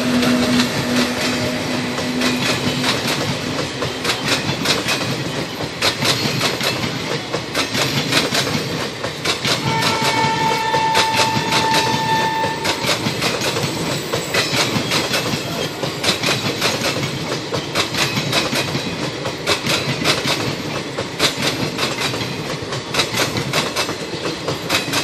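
Express train running past on its rails, the wheels clicking steadily over the rail joints. A high horn-like tone sounds for about three seconds near the middle.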